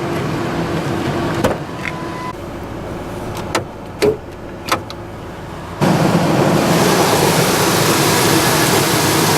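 Several sharp clicks and knocks from the hood latch of a 1999 Ford F-150 being released. About six seconds in they are followed by a sudden, much louder steady rushing noise that lasts to the end.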